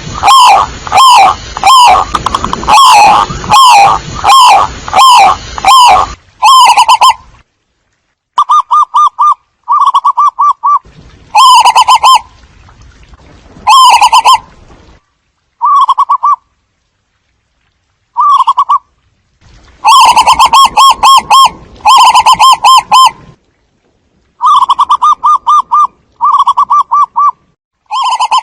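Zebra doves cooing: a dense run of loud repeated calls for the first six seconds, then short, rapid staccato trilled coos broken by silent gaps.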